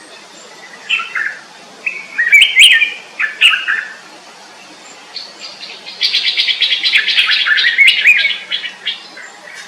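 Small birds chirping: a few short, quick chirps in the first few seconds, then a fast, rapid twittering song that starts about six seconds in and lasts about three seconds.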